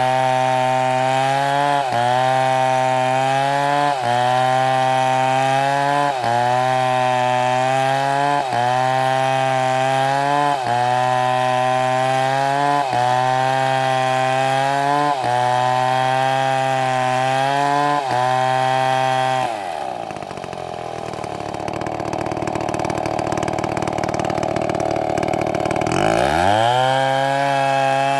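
STIHL chainsaw running at high revs through wood, its pitch dipping and recovering about every two seconds as the chain bites. About two-thirds of the way through, the revs drop off for several seconds, then the saw revs back up near the end.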